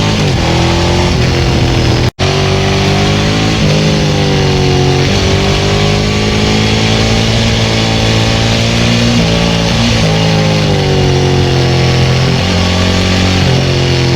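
Ducati 900SL's air-cooled 90° V-twin running through a Termignoni full exhaust under way, its engine pitch rising and falling with throttle and gear changes. The sound drops out for a moment about two seconds in.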